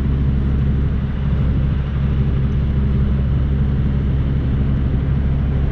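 Diesel engine of an International LT semi truck running steadily at low revs, a constant low rumble.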